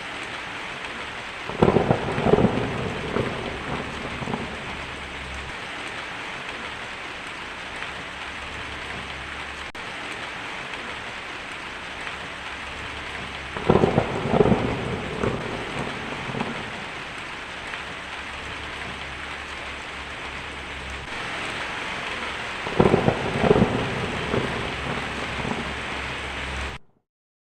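Steady rain with three claps of thunder, about ten seconds apart, each a crackling rumble lasting two to three seconds. The sound cuts off suddenly near the end.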